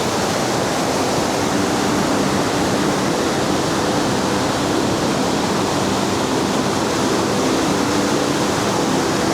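Large waterfall's falling water, a steady dense rush with no let-up.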